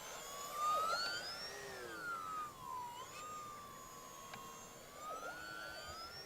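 Electric motor and propeller whine of an Arrows Sky Cruiser RC plane in flight, its pitch rising and falling twice as it flies past and the throttle changes.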